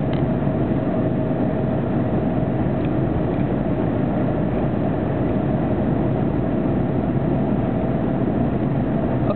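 Steady road noise heard from inside a moving car's cabin: engine and tyres on the highway, with a faint steady whine above them.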